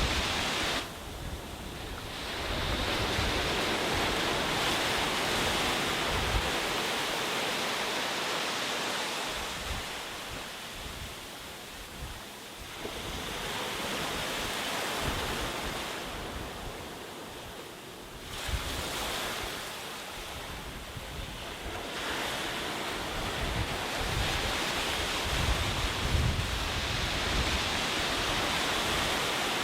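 Sea waves breaking and washing onto a beach, the surf swelling and easing in long surges every several seconds. Wind buffets the microphone with an uneven low rumble.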